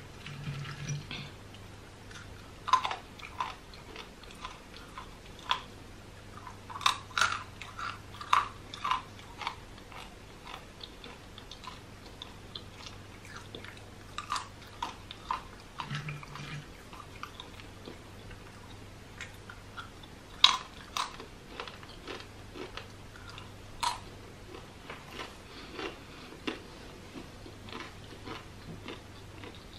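Plantain crisps bitten and chewed close to the microphone: sharp crunches come in clusters every few seconds, with quieter chewing between them. A faint steady low hum sits underneath.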